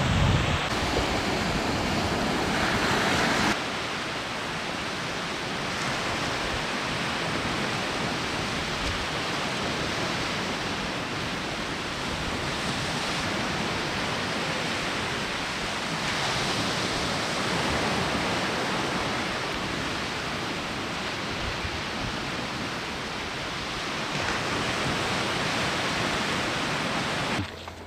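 Sea waves washing on the shore: a steady rushing hiss that swells and eases gently. It drops a little about three and a half seconds in.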